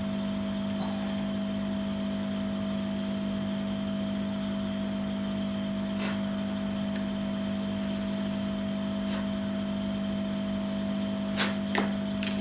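Steady mechanical hum, like a fan or motor running, with a low tone and a fainter higher tone. A few soft clicks come about halfway through and near the end.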